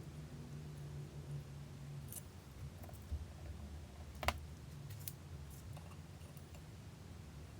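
A few scattered light clicks and taps, as of hand tools and small metal parts being handled, the sharpest about four seconds in, over a low steady hum.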